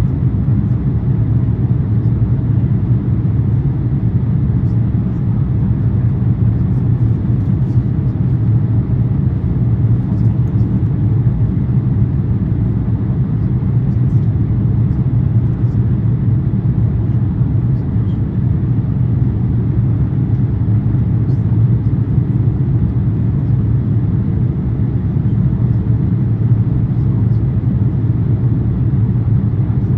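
Steady low cabin noise of an Airbus A350-900 in flight, heard from inside the economy cabin: its Rolls-Royce Trent XWB engines and the airflow around the fuselage, an even, unbroken rumble.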